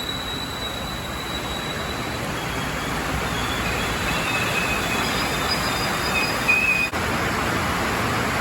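Tokyo Metro 6000-series electric commuter train moving through the station in heavy rain, over a steady hiss of rain. From about three seconds in, high thin wheel-squeal tones come and go. Near the end the sound breaks off abruptly and the rain hiss carries on.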